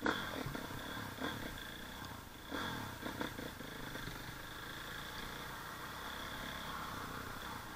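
KTM dirt bike engine running as the bike is ridden along a rough gravel trail, its revs rising briefly at the start and again about two and a half seconds in.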